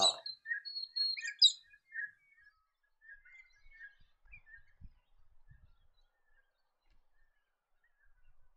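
Galahs calling: a run of short, high calls, loudest in the first two seconds, then fainter and more scattered.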